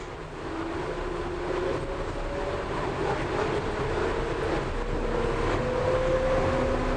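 Suburban electric train running, with a whine from its motors slowly rising in pitch as it picks up speed, over a steady rumble.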